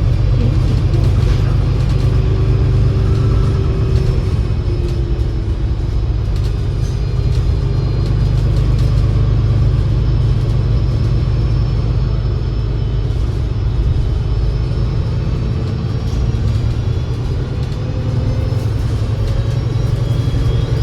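Alexander Dennis Enviro500 MMC double-decker bus with a Voith 864.5 automatic gearbox driving along. A steady low engine rumble runs underneath, and faint gearbox whines slowly glide up and down in pitch as the speed changes.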